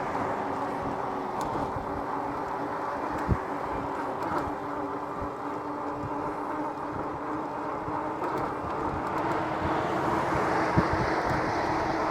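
Steady road and wind noise from riding an electric bike, with a faint steady hum. Two small knocks come about three seconds in and near the end.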